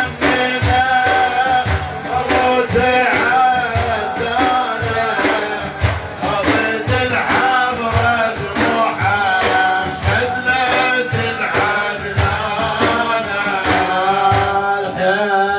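Iraqi Sufi devotional music: drum beats in a steady rhythm under a sustained melody of held notes, between the lead singer's verses.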